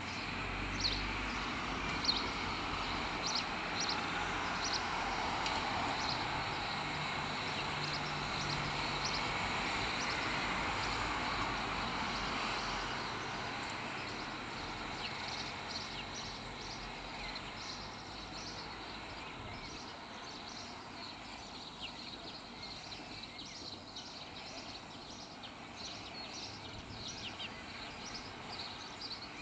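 Small birds chirping in short, repeated high calls throughout, over a steady outdoor background rumble that is louder in the first half and then eases off.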